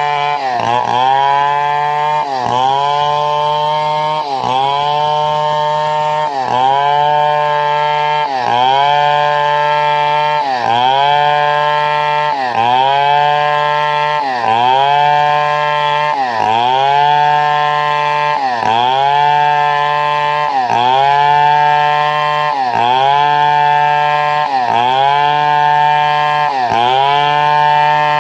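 Chainsaw engine running at high speed while ripping wood into boards, its pitch dipping sharply and climbing back about every two seconds in a regular cycle.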